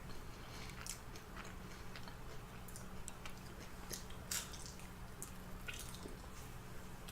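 Close-up chewing of crispy fried chicken: irregular small crunches and crackles scattered through, over a steady low hum.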